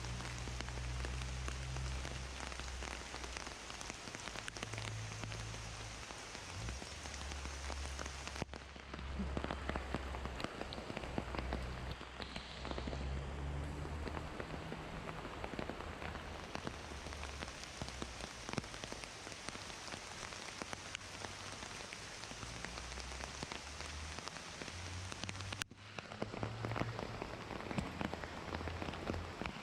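Heavy rain falling on rainforest foliage: a dense, steady patter made of countless individual drops, with a low rumble that comes and goes underneath. The sound breaks off abruptly about 8 seconds in and again near 26 seconds.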